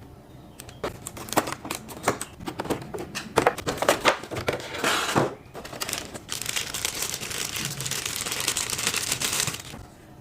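Plastic packaging being crinkled and handled, with irregular crackles and clicks, then a few seconds of continuous rustling that stops abruptly near the end, as a boxed figure is unpacked.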